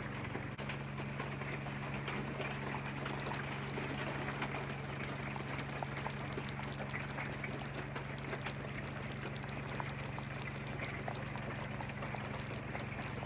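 A pot of stew simmering, bubbling and popping steadily, over a steady low hum.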